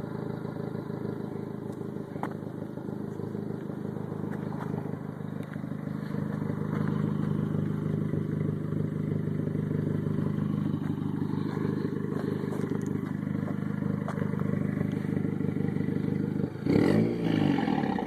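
Turbocharged VW GTI engine idling through a modified 3-inch turbo-back exhaust with the catalytic converter and resonator removed and a Twister muffler. Near the end the engine is blipped once, its note rising and falling quickly.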